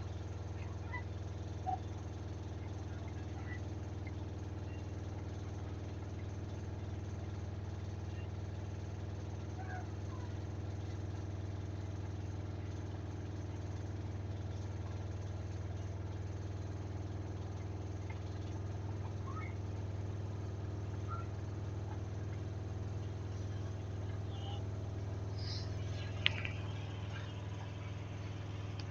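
Samsung washing machine in its final spin with a load of bedding and blankets, running at a steady high speed with a constant low hum. A few faint short chirps sound over it, and a single sharp click comes near the end.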